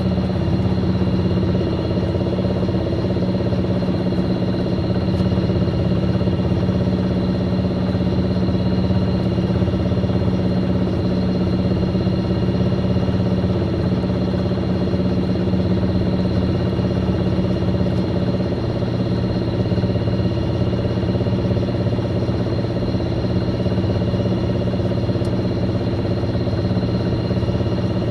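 Fisher & Paykel MW059 washing machine running steadily: a constant motor hum with a few steady higher whining tones, unchanging throughout.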